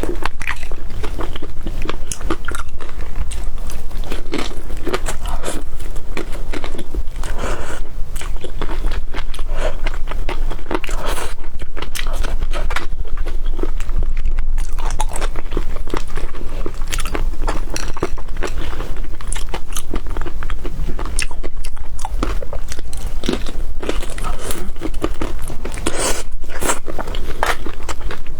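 A person chewing and biting seafood close to the microphone, with crunching and many small irregular clicks throughout, over a steady low hum.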